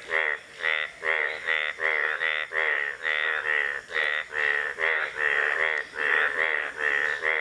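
Indian bullfrog croaking in a rapid, steady run of short calls, roughly three a second.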